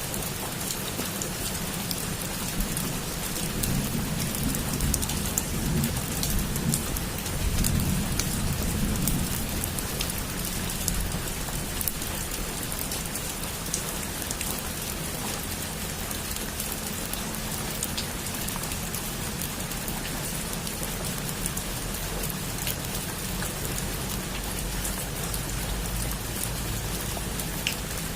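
Heavy rain drumming steadily on a roof, with fine drop ticks throughout. A low rumble of thunder swells from about four to nine seconds in.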